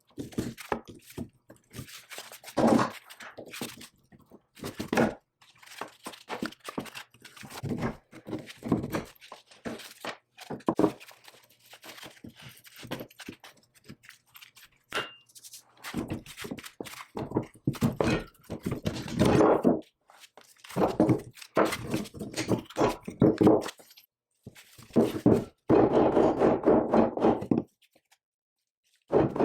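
Metal parts of a cast iron power hammer being worked apart with hand tools: a run of knocks, clanks and scraping, with a couple of longer rattling or grinding stretches, broken by sudden stops.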